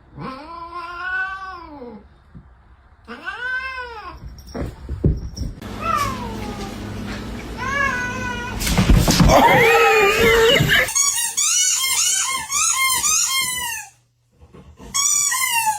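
Domestic cats meowing and yowling: a few long, arching meows, then a louder, rougher stretch of yowling, then a quick run of short meows several a second. The sound breaks off abruptly and the short meows resume near the end.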